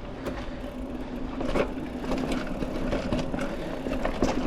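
Mountain bike rolling along a dirt trail: a steady hum from the ride with scattered clicks, knocks and rattles as the bike goes over bumps.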